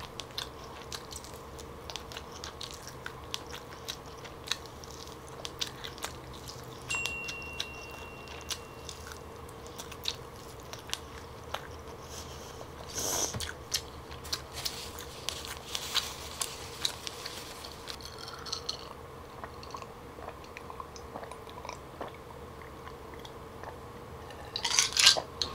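Close-miked chewing of smoked turkey leg meat: irregular wet mouth clicks and smacks, over a faint steady hum. Near the end, a short cluster of louder sounds as a glass of iced drink is drunk from.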